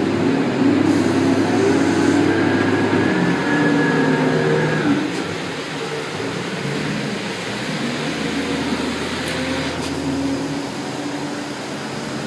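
Steady rumble of a running vehicle with a low hum, a little louder for the first five seconds.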